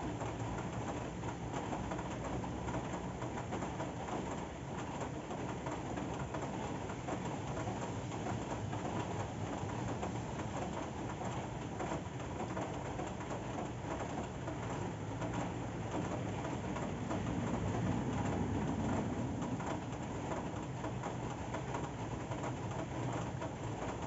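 Steady rain falling: an even, dense hiss weighted toward the low end, swelling slightly about three-quarters of the way through.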